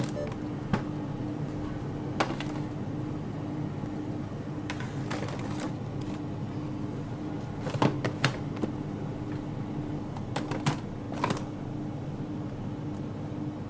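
Plastic food containers being handled and set down: scattered light clicks and knocks, a few at a time, over a steady low hum.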